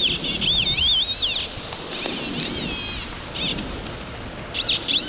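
Metal detector target tones: short, high warbling beeps that swoop up and down in pitch, in several bursts, heard over a steady hiss of rain and wind.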